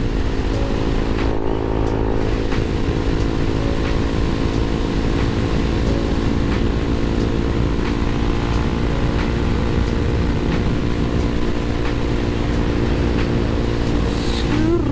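Motorcycle engine running steadily while riding along the road, with a brief rise in pitch near the end.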